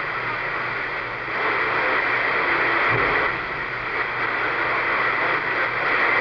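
CB radio receiver putting out a steady static hiss on an open channel with no readable station coming through, a sign of poor skip conditions on the band.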